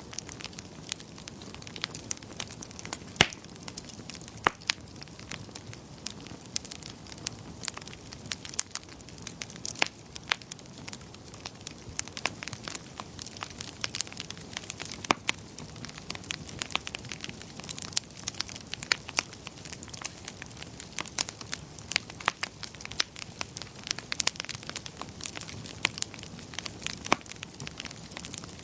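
Fireplace fire crackling: irregular sharp pops and snaps over a steady low hiss, with one louder pop about three seconds in.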